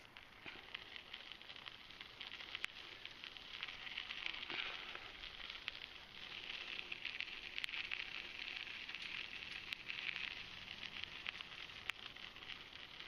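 Dense crackling rattle of a handlebar-mounted camera shaking in its mount as the bicycle vibrates over the trail, swelling and easing as the ride goes.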